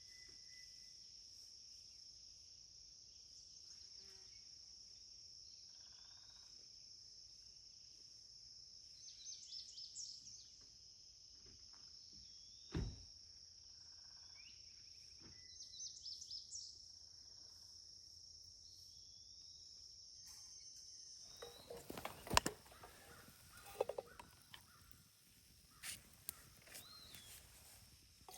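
Quiet forest ambience with a steady, high-pitched insect drone that stops about 21 seconds in. A single sharp knock comes about halfway through, and a few scattered knocks and rustles follow near the end.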